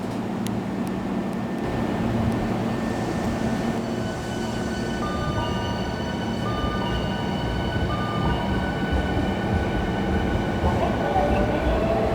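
Hankyu electric commuter train pulling out of the station, a steady rumble with a motor whine of several high tones that step in from about four seconds in.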